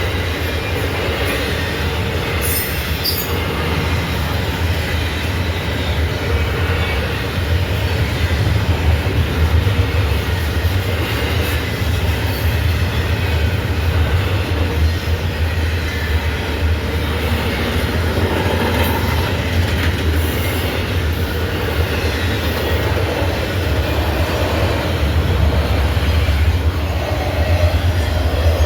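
Freight train rolling past, a loud, steady low rumble of wheels and cars on the rails.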